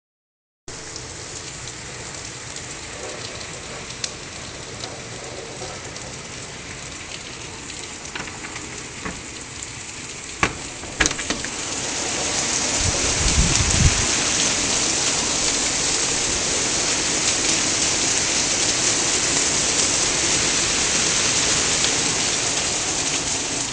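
Heavy rain pouring down in sheets, a steady hiss that swells louder about halfway through, with a few sharp taps and a short low rumble near the middle.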